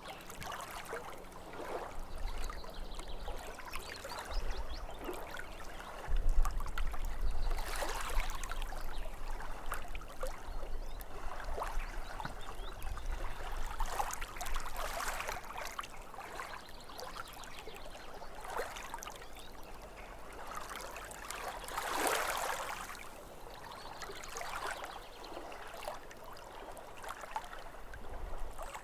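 Small waves lapping against a lake shore, splashing and trickling in irregular swells every couple of seconds. A low rumble sits underneath from about six seconds in.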